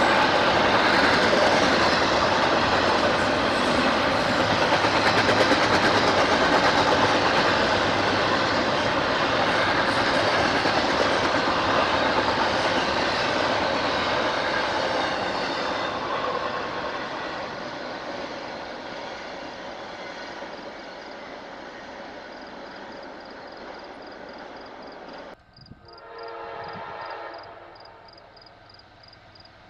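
Train passing over the crossing, wheels clattering, slowly fading away as it goes. Near the end the sound cuts suddenly to another train blowing its horn, a chord of several steady notes, with a railroad crossing bell dinging rapidly.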